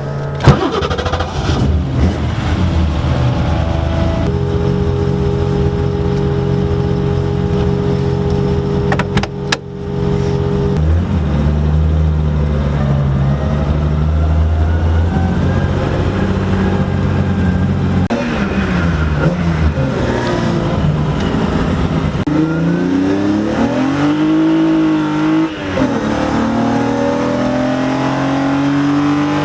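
BMW E30 rally car's engine, heard from inside the car: it runs at a steady speed for about ten seconds, then after a knock it revs up and down in several rising and falling swells, climbing again near the end.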